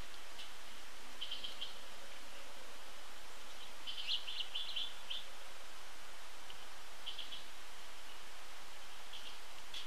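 Wild birds chirping in short, quick clusters of high notes, loudest about four seconds in, over a steady background hiss.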